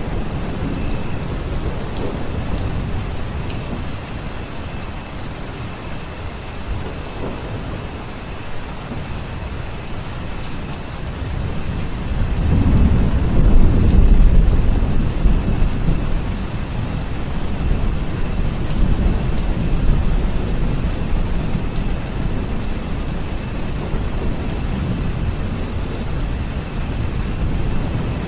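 Steady rain falling, with a long low rumble of thunder that swells about halfway through and slowly dies away.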